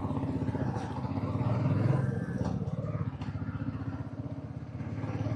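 Royal Enfield Meteor 350's single-cylinder engine running under way, a steady, rapid stream of firing pulses that swells a little about two seconds in and then eases.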